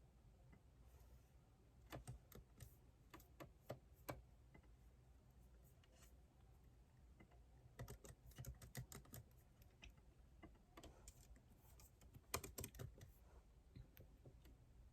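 Quiet typing on a computer keyboard: three short flurries of key clicks with pauses between them.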